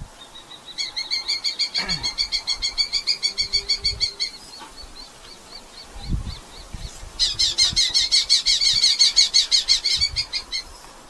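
Red-footed falcons calling in two rapid runs of sharp, high, evenly repeated notes. The second run, about seven seconds in, is louder. A single low thump falls in between.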